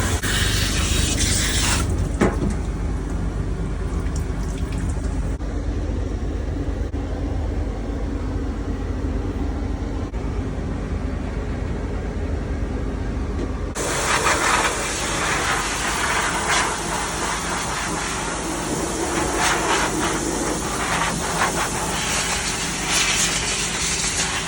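Running water from a grooming sprayer during a puppy's bath over a steady low rumble, the spray hiss cutting off about two seconds in and coming back on about halfway through, with uneven splashing as it plays over the dog.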